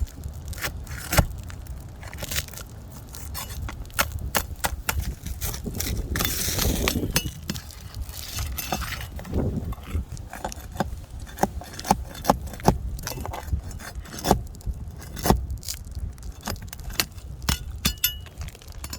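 Asphalt roof shingles being pried up to reach the nails: irregular sharp snaps and clicks as the sealed tabs break loose, with a longer crackling, scraping stretch about six seconds in.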